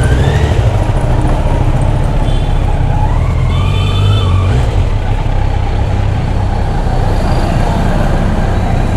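Motorcycle engine running in road traffic, a steady low rumble with two rising revs, one at the start and another about three seconds in.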